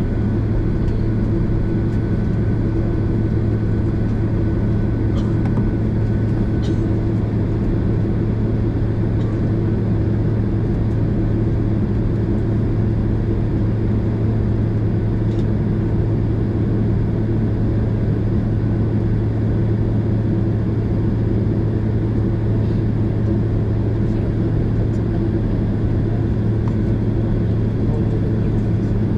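Steady low drone inside the cabin of a Boeing 767 airliner, a constant hum of the aircraft's engines and air systems with a few faint ticks about five to seven seconds in.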